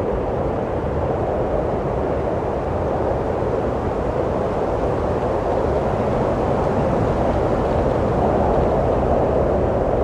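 Wind blowing steadily, a low, even rushing noise that swells slightly near the end.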